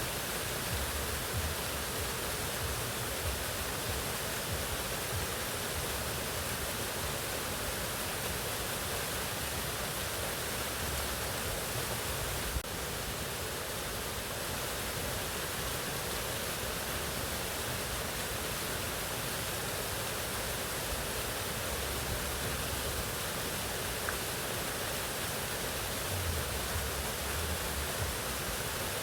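Mountain waterfall rushing steadily, a dense even roar of falling water, with one brief tick about halfway through.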